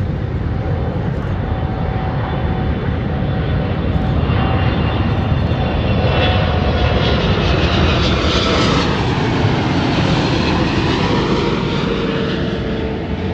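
Jet airliner flying past on its landing approach, its engine noise building to a peak about two-thirds of the way in. As the plane passes, the engine whine slides down in pitch.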